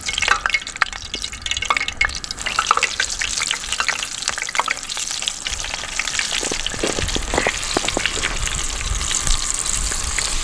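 Shrimp frying in hot oil in a pan on a camp stove: sharp crackling pops at first, settling into a steadier sizzle.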